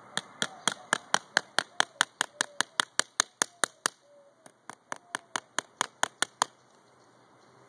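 A small hammer driving a big nail into a wooden craft piece: quick, even strikes about four or five a second, a short pause about four seconds in, then another run of strikes.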